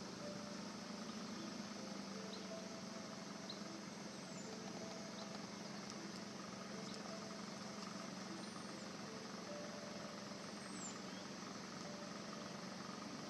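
Car engine idling steadily, heard from inside the car, with a few faint high chirps now and then.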